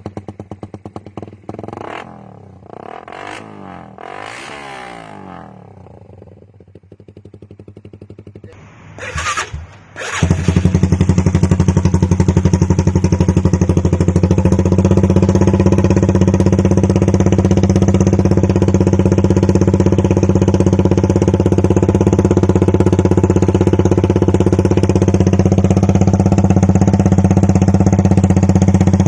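Suzuki Raider 150 Fi single-cylinder motorcycle engine revved through an aftermarket exhaust. It is quieter at first, with the revs rising and falling a few times. About ten seconds in it turns suddenly much louder and is held at steady high revs.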